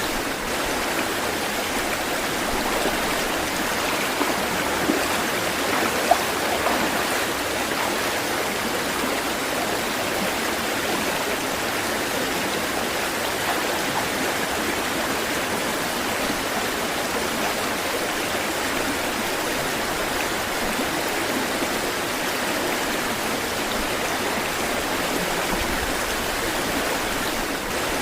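Steady rush of flowing water, unbroken throughout, with a few brief, sharper splashes about five seconds in.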